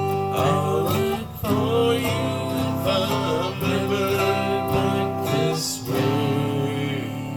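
Acoustic guitar and autoharp strumming chords in a country-folk style, with the last chord ringing and slowly fading near the end.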